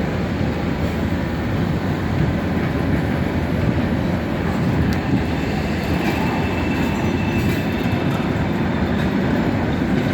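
Freight train of empty cars rolling out: a steady rumble of wheels on the rails, mixed with wind on the microphone. A faint high squeal from the wheels on the rails comes in around the middle.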